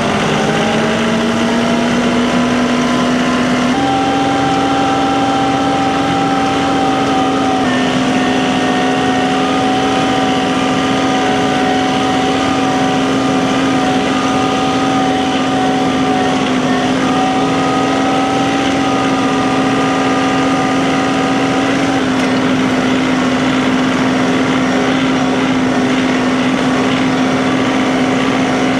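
Vehicle engine running steadily under way after pulling off, its note rising at the start, then holding with small shifts in pitch a few times.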